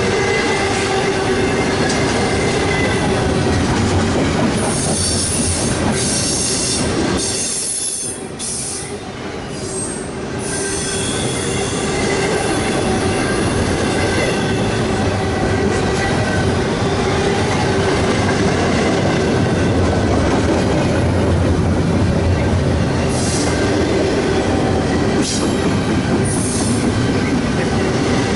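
CSX intermodal freight train rolling past, its steel wheels squealing on the rails with a steady rumble and clatter. The sound briefly drops about eight seconds in.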